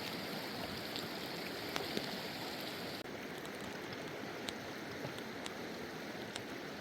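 Steady rush of a fast-flowing mountain river, with a few faint clicks.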